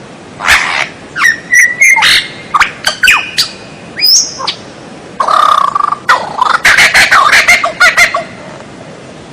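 White-rumped shama (murai batu) singing a varied song of sharp whistled notes and quick clicks in separate phrases, then a dense, fast chattering run of notes from about the middle, ending in a short pause.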